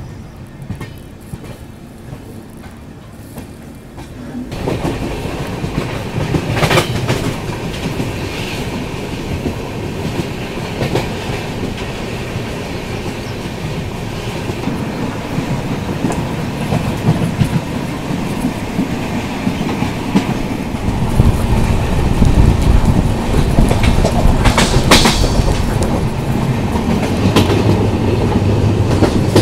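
Passenger train coaches running at speed, heard from the open doorway: a steady clatter and rumble of wheels on the rails with a clickety-clack of rail joints. The noise steps up sharply about four seconds in, is broken by a few sharp knocks, and grows into a heavier low rumble in the last third.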